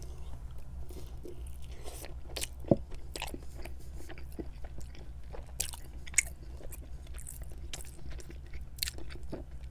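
Close-miked chewing of a pizza slice: wet mouth sounds with scattered small crunches and crackles of crust and topping, and a couple of sharper clicks.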